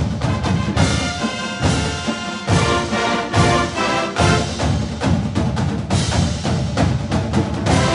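Orchestral music with brass and pounding timpani and percussion, loud and driving, with repeated drum strikes.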